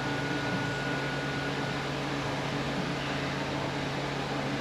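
Steady mechanical hum and hiss of a fan or air-conditioning unit running, with a faint thin steady tone during the first second and a half.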